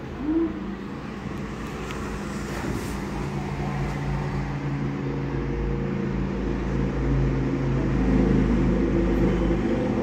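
A motor vehicle's engine running: a steady low hum that grows gradually louder.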